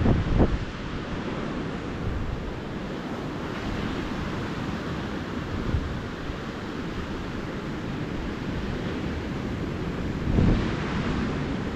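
Small ocean waves washing steadily onto a beach, with wind buffeting the camera microphone in low rumbling gusts just after the start and again about ten seconds in.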